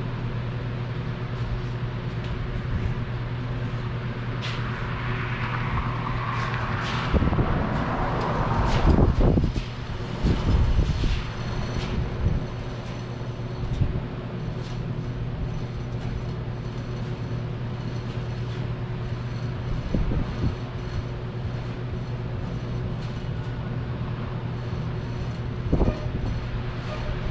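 A vehicle engine running steadily while it tows a wheeled test stand by rope. There is a stretch of louder rattling and knocking about seven to twelve seconds in, and another knock near the end.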